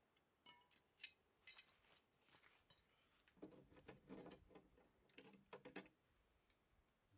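Faint mechanical clicking: a few separate clicks, then a denser run of rattling clicks in the middle of the stretch, over near silence.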